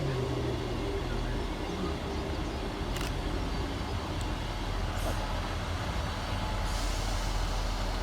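Scotrail Class 158 diesel multiple unit standing at the platform, its diesel engines idling with a steady low rumble. A short squeal falls away right at the start as it comes to a stand, and a burst of air hiss comes near the end.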